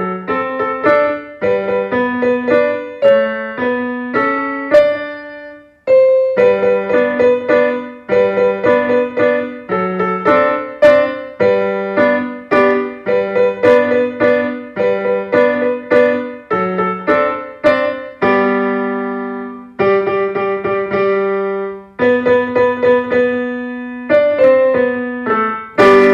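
Solo piano playing a light melody in short phrases of separately struck notes, with a brief break about six seconds in and longer held chords a little past the middle.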